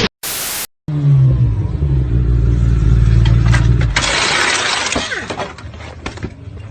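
A half-second burst of static, then a vehicle engine running with a low hum for about three seconds, followed about four seconds in by a rush of noise and scattered clicks and knocks.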